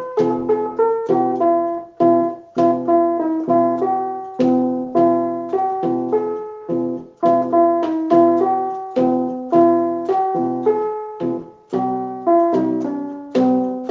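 Instrumental music: a keyboard plays a bouncy tune in chords, each note struck and then fading, in a steady rhythm.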